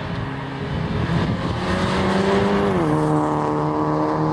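A racing car's engine at high revs approaching and passing, its note growing louder and then dropping sharply in pitch about three seconds in.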